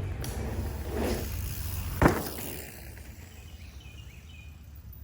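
Outdoor ambience: a steady low rumble, a brief rushing swell about a second in, and one sharp thud about two seconds in, the loudest sound. Faint bird chirps follow near the end.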